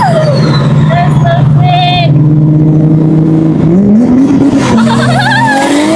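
Car engines running at a street car meet, one revving up with a rising pitch about four seconds in, with a brief tire squeal about two seconds in and people shouting.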